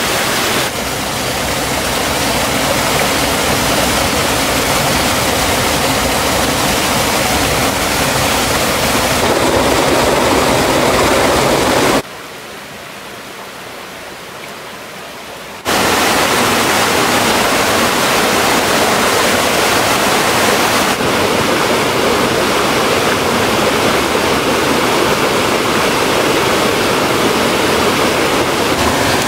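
Steady rush of a waterfall and mountain stream, loud and even, dropping to a quieter, duller rush for about four seconds midway before returning.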